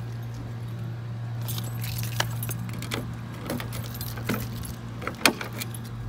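Pickup truck's V6 engine running steadily, heard inside the cab, with a scattered series of sharp clicks and jingles like keys rattling.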